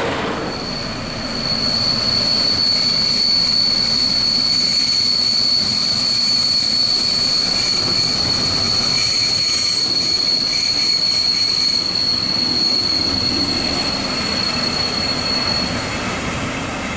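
DB class 212 diesel-hydraulic shunting locomotive hauling a train of container wagons slowly past, with the rumble of the train and a steady high-pitched wheel squeal that holds for most of the time and fades out near the end.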